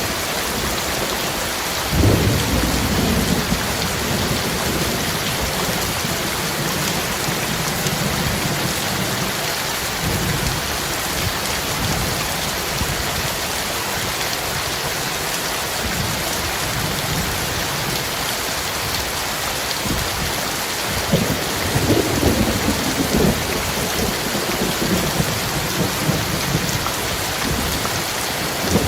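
Heavy rain falling steadily, with thunder rumbling low about two seconds in and again about twenty seconds in.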